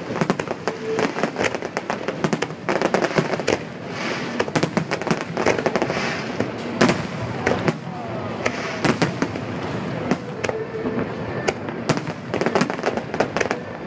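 Fireworks display: a dense, continuous barrage of bangs and crackling shell bursts, many overlapping each second.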